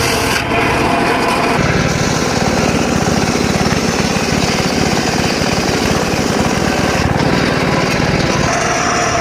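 Engine-driven circular saw cutting dry teak wood, the engine running hard under load with a dense rapid pulsing. Near the end a steady high whine comes in.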